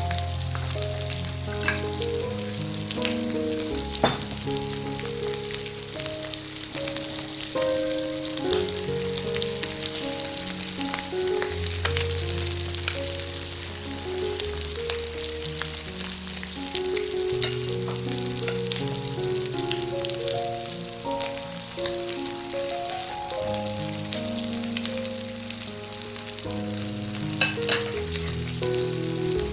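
Duck and kimchi sizzling on a cast iron grill plate, with a few sharp clicks as tongs work the food. Soft background music of slow held notes plays throughout.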